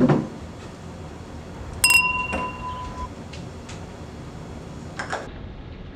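Glasses clinked together in a toast: one bright clink about two seconds in that rings for about a second. A dull thump at the start and a short knock near the end.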